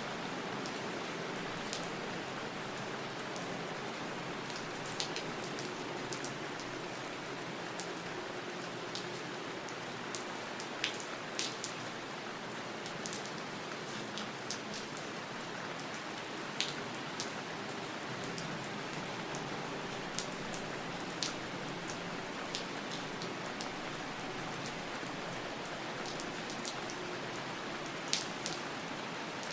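Steady rain falling, an even hiss with individual drops hitting a surface, ticking sharply every few seconds.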